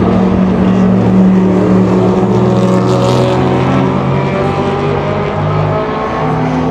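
Historic race car engine running hard with a loud, steady note that sinks slowly in pitch, then steps down about six seconds in.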